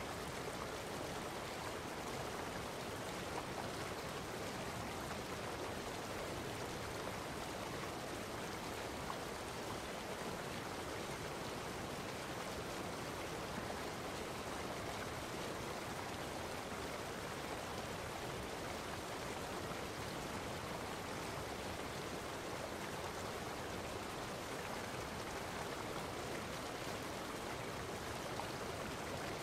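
Steady running water, an even rushing that does not change.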